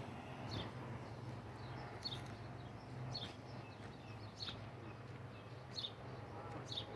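A bird giving repeated short, high chirps, about one or two a second, over a steady low hum.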